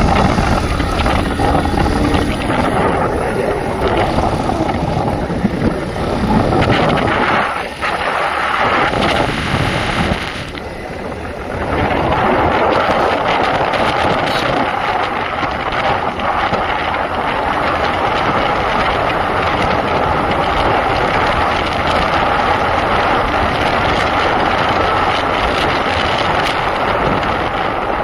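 Motorcycle running along on a ride, with steady rushing wind on the microphone; the noise drops briefly twice, around eight and eleven seconds in.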